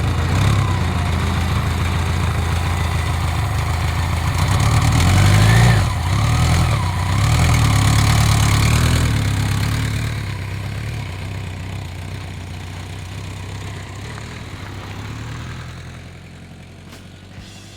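Motorcycle engine running under way, its pitch rising to a peak about five seconds in, dropping, then picking up again before easing off and fading toward the end.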